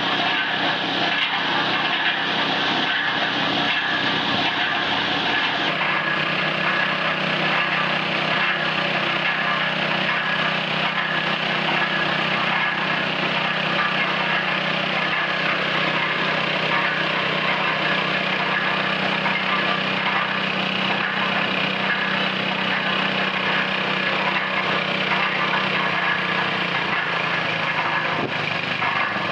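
Small petrol engine running steadily, with a shift in its note about six seconds in.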